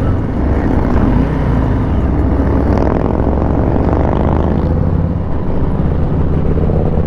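Motorcycle engine running steadily under way, the low V-twin of a 2020 Harley-Davidson Street Bob, with its pitch rising a little around the middle.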